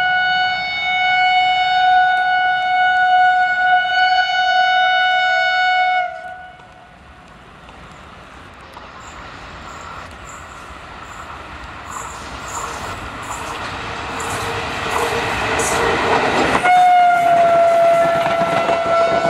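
An Indian Railways WAP4 electric locomotive's horn sounds a long steady blast. An express train then comes on at speed, its running noise and wheel clicks over the rail joints growing louder. About three-quarters of the way through, a second horn blast sounds as the locomotive passes close, its pitch dropping slightly.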